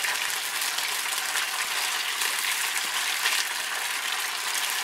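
Beef strips sizzling in hot canola oil in a wok over a gas burner: a steady hiss, with the odd faint scrape as the meat is stirred.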